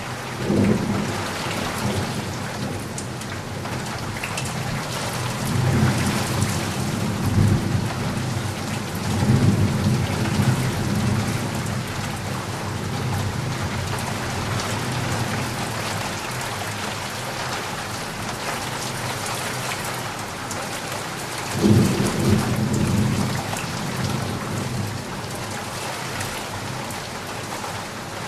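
Heavy rain falling steadily in a thunderstorm, with low rolls of thunder near the start and again for several seconds in the first half. A sharper thunderclap comes about three-quarters of the way through.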